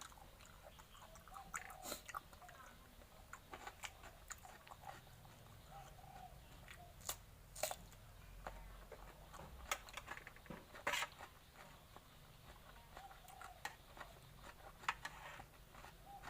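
A person chewing and biting food close to the microphone, with scattered sharp crunching clicks, a few of them louder.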